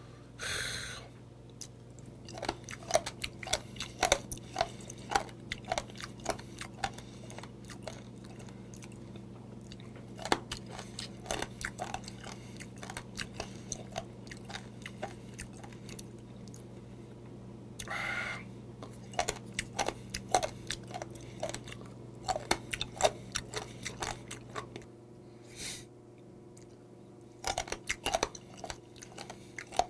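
Close-miked chewing of warty sea squirts (miduduk), a long run of sharp, wet clicks from the bites, with a few brief breathy bursts between mouthfuls, over a steady low hum.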